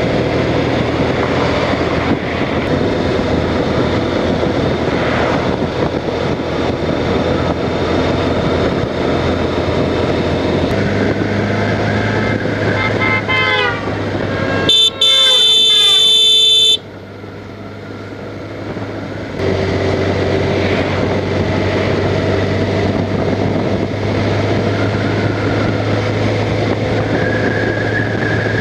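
Honda Crosstourer motorcycle under way, its V4 engine running steadily under wind noise. Just past the middle, a quick run of short rising chirps is followed by a loud horn blast of about two seconds.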